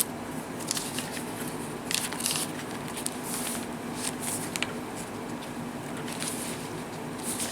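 Paper pages, tags and envelopes of a handmade journal rustling and crinkling as they are handled and turned, in scattered short bursts over a steady low hum.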